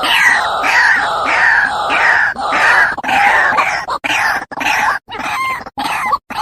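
White-breasted waterhen (ruak-ruak) calling: a loud, harsh, rhythmic series of repeated notes, somewhat under two a second, breaking into shorter, choppier notes near the end.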